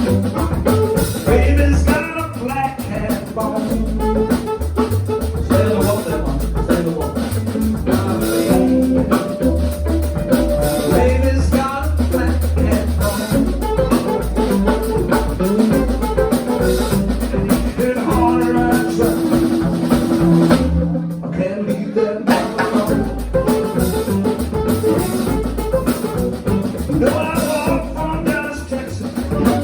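A live blues band playing, with drum kit, bass guitar and singing. The drums and cymbals drop out briefly about two-thirds of the way through, leaving a held bass note before the band comes back in.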